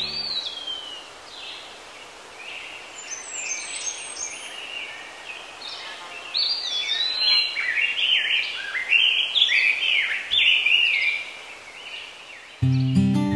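Several songbirds singing, a busy run of quick chirps and whistles over a faint steady hiss. Acoustic guitar music comes in near the end.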